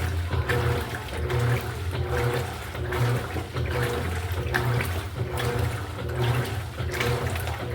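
Electrolux LED14 washing machine running its wash cycle: water churning and splashing over a steady low motor hum, swelling in a repeating rhythm.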